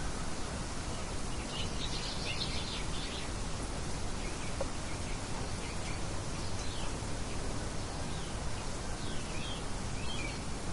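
Steady wind noise with birds chirping over it: a quick cluster of chirps about two seconds in and a few scattered chirps later on.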